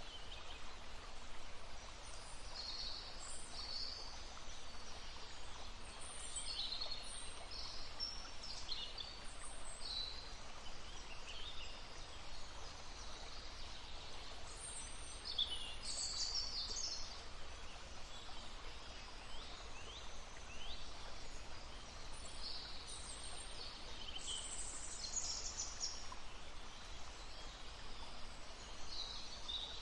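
Wild birds singing: many short, high chirps and trills from several birds through the whole stretch, over the steady rush of a stream.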